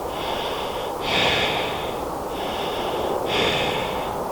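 A person breathing in and out close to the microphone, one hissing breath about every second.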